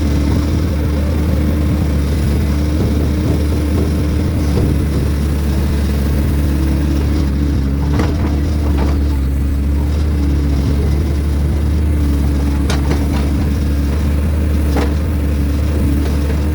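Heavy equipment's engine running steadily with a loud low drone. Several short knocks come in the second half.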